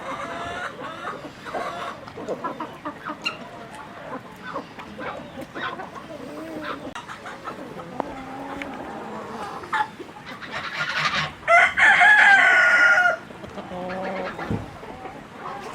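A flock of chickens clucking, with short calls scattered throughout, and a rooster crowing loudly in one drawn-out call about 11 to 13 seconds in.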